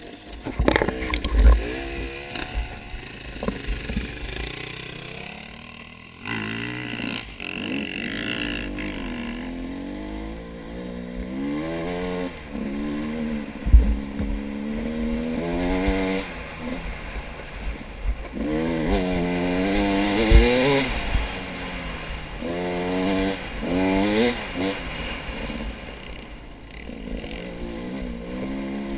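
Off-road vehicle engine revving up and down again and again as it is ridden, with a few dull thumps, the sharpest about 14 seconds in.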